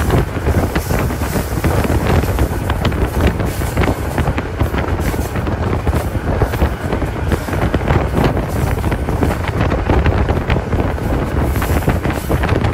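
Wind buffeting the microphone held out of the cab of a moving GEU-20 diesel locomotive, over the steady running noise of the train on the rails.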